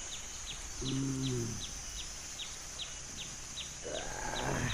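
Outdoor insect chorus: a steady high-pitched drone with a regular series of short falling chirps, about three a second. About a second in, a man gives a brief low hum, and near the end comes a short rising rustle.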